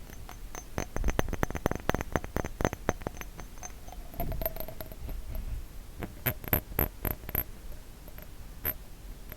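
Glass bottle tapped quickly with the fingers, a fast run of sharp taps that thins out to slower, separate taps in the second half, with a faint ringing note from the glass about four seconds in.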